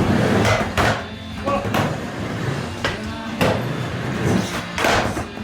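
Skateboard riding a mini ramp: wheels rolling with a series of sharp, irregular knocks and clacks as the board and trucks strike the ramp and coping.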